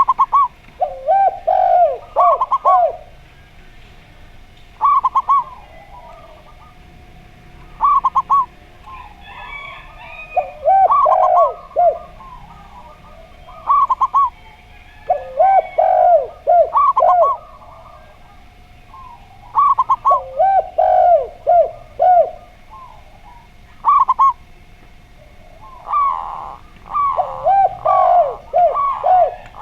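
Zebra dove and spotted dove cooing in turn. Short phrases of quick coos, some higher-pitched and some lower, repeat every few seconds.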